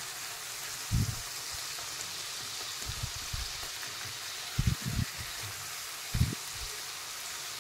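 Onion-tomato masala sizzling in oil in a non-stick kadhai as it is stirred with a spatula: a steady frying hiss, with a few dull low knocks from the spatula against the pan.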